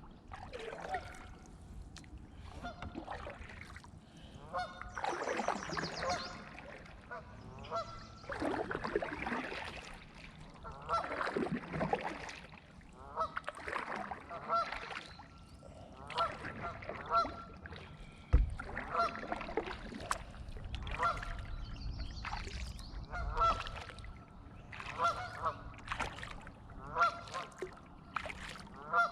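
Geese honking, many short calls repeating one after another, with one sharp knock a little past halfway.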